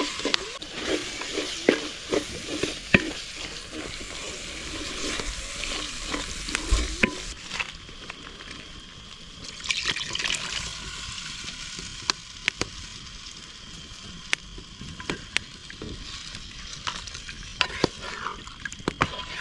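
Beef frying in a pan over a wood fire, sizzling, while a utensil stirs and scrapes it against the pan. The stirring is busy for the first eight seconds or so; after that the sizzle goes on more quietly, with scattered sharp clicks.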